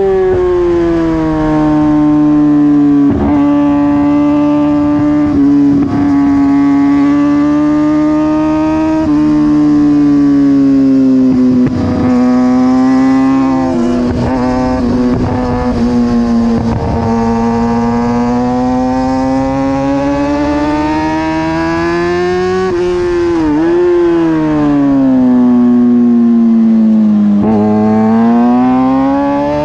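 2009 Kawasaki ZX-6R's inline-four engine running hard at high revs under racing throttle, heard on board. Its pitch wavers slowly, with a few quick dips, over a steady rush of wind noise.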